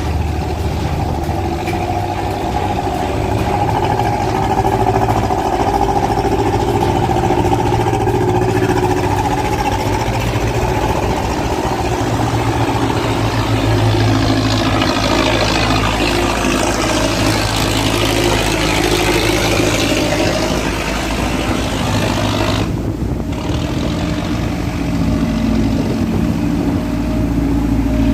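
Boat engines running steadily as motorised cargo boats push upstream through a river sluice gate against the current. Midway one passes close by, with a sweeping rise and fall in the sound.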